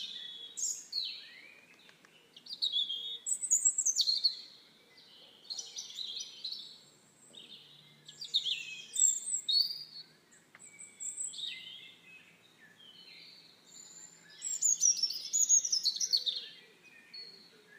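Birds singing and calling: a series of quick, high-pitched chirping and warbling phrases in clusters, with short pauses between them.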